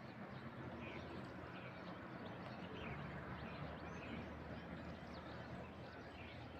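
Several wild birds chirping and calling faintly, many short calls scattered throughout, over a steady low background noise.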